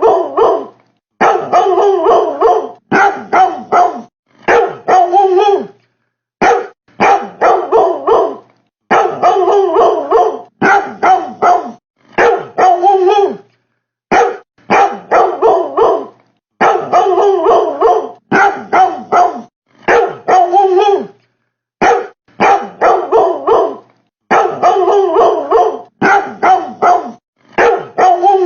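Loud dog-like barking: short sharp barks in quick runs of three to five, about three barks a second, each run cut off by a second or so of dead silence. The runs repeat in a regular pattern, like a looped recording. The barking is presented as coming from a fridge.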